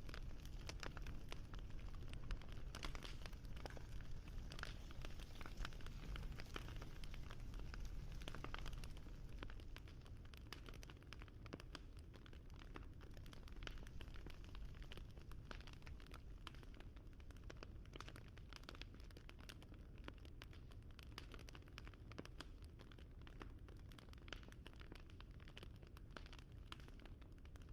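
Wood fire crackling: a steady stream of small, irregular pops and snaps over a low rumble, a little quieter after about nine seconds.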